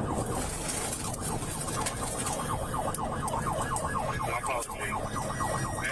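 Police siren in rapid yelp mode, its pitch sweeping several times a second without a break, over a low rumble of vehicle noise.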